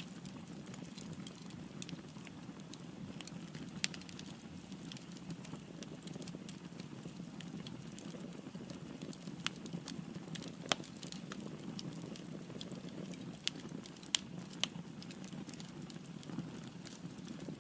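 Firewood burning in a fireplace: a steady low rumble of flames with scattered sharp crackles and pops, a few louder snaps standing out.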